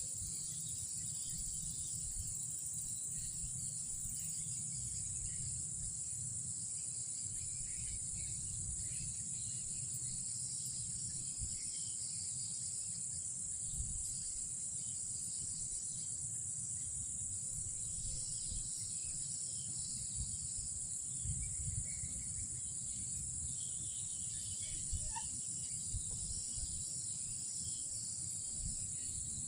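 Steady high-pitched trilling of a night insect chorus, with scattered fainter chirps and a low rumble underneath.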